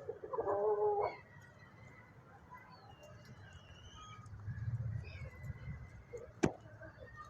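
A chicken gives one steady-pitched call, a little under a second long, near the start. Faint high chirps follow, and a single sharp knock comes near the end.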